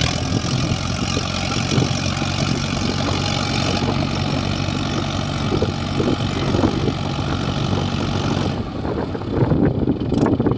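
Heavy diesel engine running steadily with a low, even hum, until about eight and a half seconds in, when the steady hum gives way to a rougher, irregular sound.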